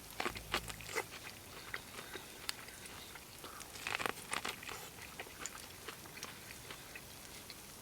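A person biting into and chewing corn on the cob, heard as irregular crunchy clicks with a louder cluster of bites about four seconds in.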